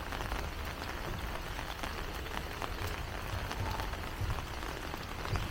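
Heavy rain falling: a steady hiss with many small drop ticks pattering on surfaces, and a few low thumps in the second half.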